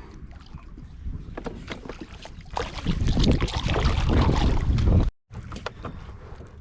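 Wind on the microphone and scattered light clicks and knocks on a fishing kayak. About two and a half seconds in, a louder rush of noise builds and then cuts off suddenly.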